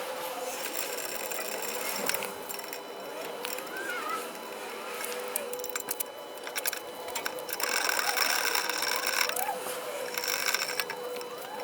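Ratchet wrench clicking in quick runs while undoing the brake caliper's mounting bolts; the runs are densest in the second half.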